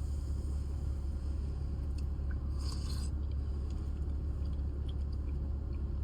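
A person chewing food, with a short rustle about two and a half seconds in, over the steady low rumble of a car cabin.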